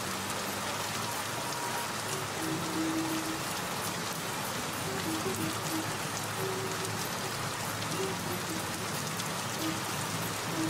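Steady rain falling on a hard surface, with soft background music adding scattered short low notes.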